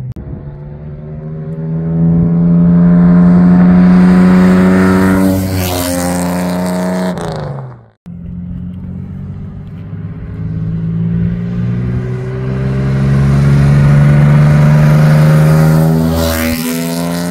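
1972 Dodge Polara coupe's 3.6-litre Slant 6 inline-six, fed by a large IDF 48 carburettor, driving past twice. Each time the engine note builds to a peak and then drops in pitch as the car goes by, with a brief break in the sound about halfway.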